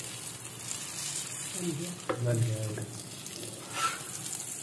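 Egg paratha frying in oil on a flat iron tawa: steady sizzling, with a steel spatula pressing and scraping against the pan. About two seconds in, a click is followed by a short low hum like a voice, the loudest moment.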